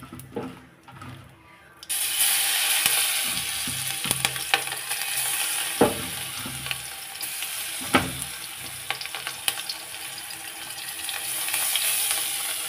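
Batter-coated green chillies frying in hot oil in a kadai: the sizzle starts suddenly about two seconds in as they go into the oil, then runs on steadily, with a few sharp knocks against the pan.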